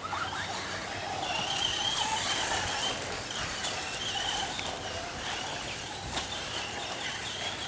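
Electric RC stadium trucks running, their motors and gears whining in a high wavering tone with a lower one beneath, over the rattle of the trucks on the track, with a few sharp clicks.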